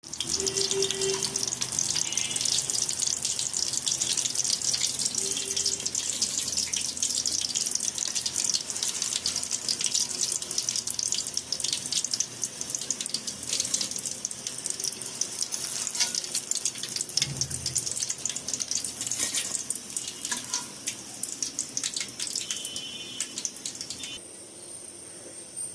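Chicken balls deep-frying in hot oil: a dense, crackling sizzle that thins out and stops about 24 seconds in.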